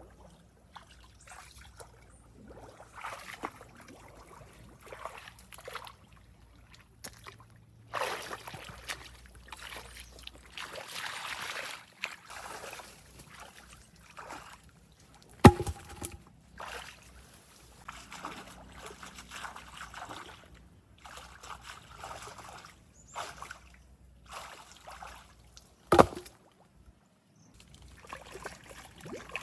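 Water sloshing and trickling in a run of short, abruptly cut snippets, with two sharp knocks, one about halfway through and one near the end, each ringing briefly.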